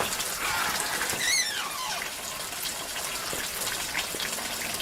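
Steady rushing, water-like noise with scattered faint clicks. About a second in, a brief high wavering call falls in pitch.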